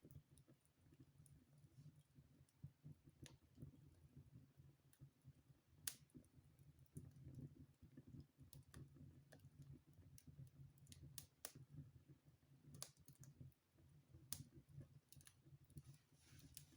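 Wood fire burning in a fireplace, crackling faintly with irregular sharp pops and snaps over a low steady hum.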